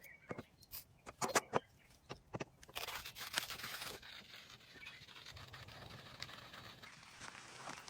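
Sharp clicks, knocks and scraping in the first few seconds, like gear being handled, then a steady soft hiss.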